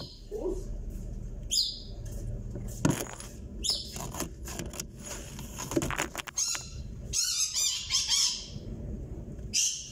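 A bird chirping repeatedly in short high calls, busiest a little past the middle, over a steady low mechanical hum from the twin-tub washer, with a couple of sharp knocks.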